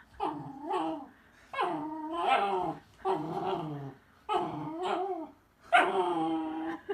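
A dog whining and grumbling in about five drawn-out, wavering calls, one after another.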